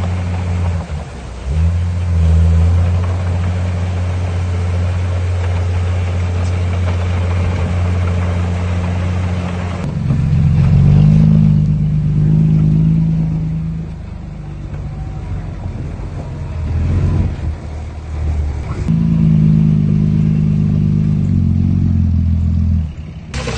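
Heavy diesel engine of earthmoving equipment running with a steady low note, then pulling harder about ten seconds in with a higher engine pitch. It eases off for a few seconds, works hard again, then cuts off abruptly near the end.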